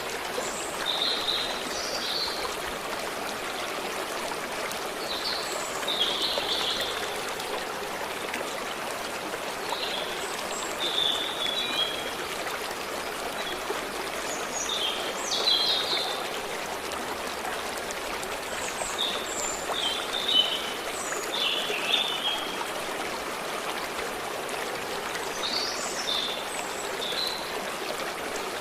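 Forest stream running steadily, with small birds giving short chirps every few seconds over the water.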